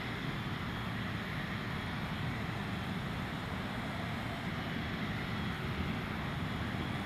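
Steady rushing air and engine noise heard inside a Boeing 777-300ER, a low rumble under an even hiss with no change.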